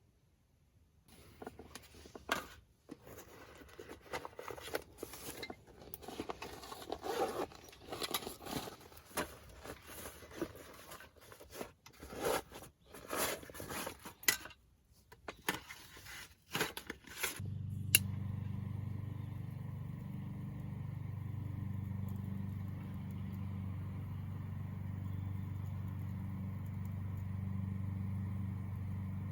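Irregular scraping and rustling of things being handled, with scattered clicks. About eighteen seconds in, a sharp click is followed by a steady low hum that carries on unchanged.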